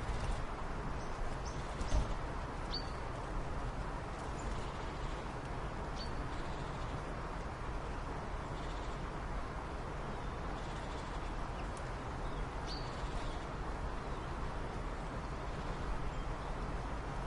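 Steady background noise, with a few short, high chirps a few seconds apart.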